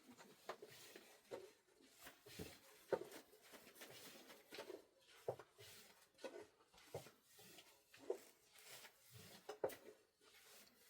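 Soft, irregular knocks and rubbing sounds, about one or two a second.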